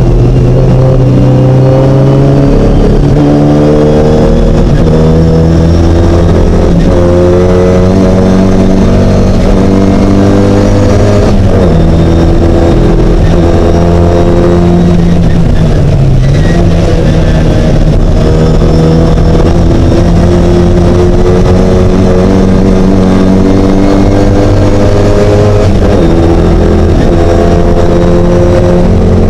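Classic Mini race car's engine at full throttle, very loud, its revs climbing and dropping back again and again as it works up through the gears.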